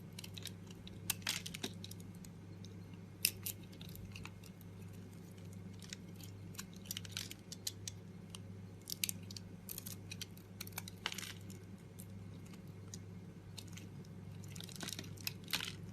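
Knife cutting into dry bar soap: irregular crisp crunches and crackles, several clustered near the middle and near the end, over a steady low hum.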